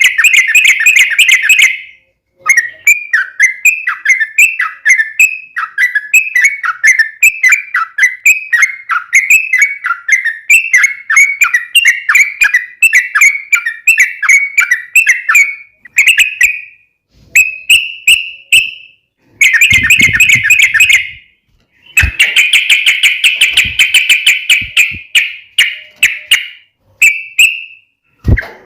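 Yellow-vented bulbul (trucukan) singing in a long run of quick, bubbling whistled notes, broken into phrases by short pauses, with denser, louder chattering bursts about two-thirds of the way through.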